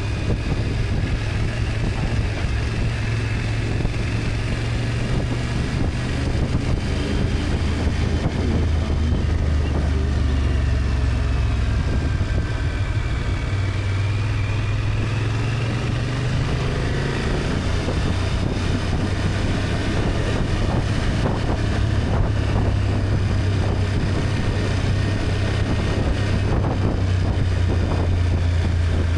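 BMW F800GS 798 cc parallel-twin engine running while riding, with wind rushing over the microphone; the engine's low note shifts pitch a few times as the speed changes.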